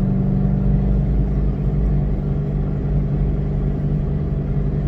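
2006 Ford Mustang GT's 4.6-litre V8 running at a steady cruise, a constant low drone with road rumble, heard from inside the cabin.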